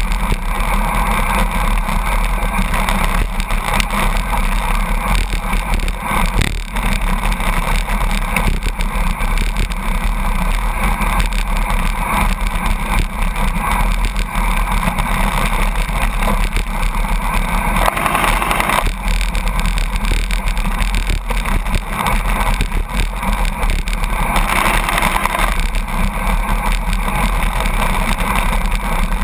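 Steady rush of wind and road noise from a road bicycle drafting close behind a truck at about 82 km/h, with the truck droning ahead. It swells slightly twice, around the middle and again later.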